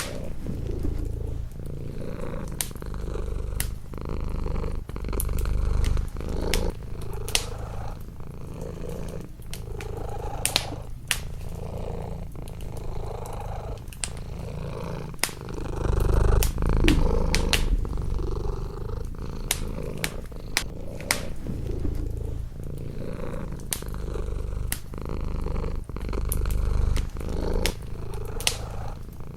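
Domestic cat purring close up, its low rumble swelling and fading with each breath, over the sharp snaps and crackles of a wood fire in a fireplace.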